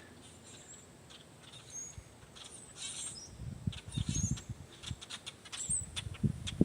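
Scattered short, high bird chirps over quiet woodland ambience, joined from about three and a half seconds in by irregular low rustling and thuds.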